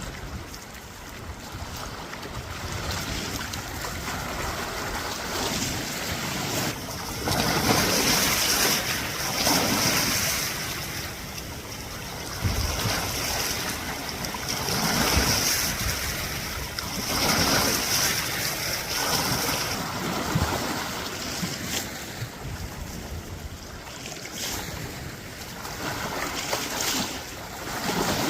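Small waves washing against the reservoir shore in surges every couple of seconds, with wind buffeting the microphone. A high-pitched steady trill runs through the middle part and stops about two-thirds of the way in.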